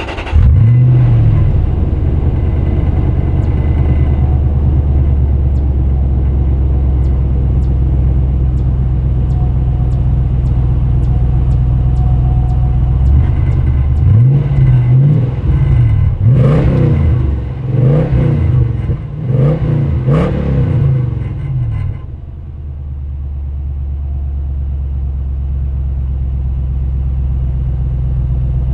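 Toyota 4.7-litre V8 of a Land Cruiser 100 running through a Borla stainless steel cat-back exhaust. It flares up just after starting and idles steadily. From about halfway through it is revved in about six quick blips, then settles back to idle.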